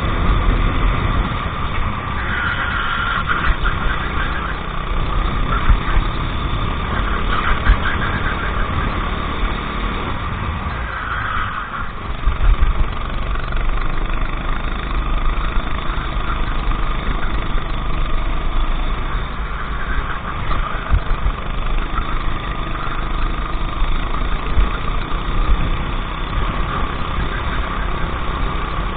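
Racing kart engine running at race pace, its pitch rising and falling repeatedly as the throttle opens and closes through the corners, over a constant low rumble.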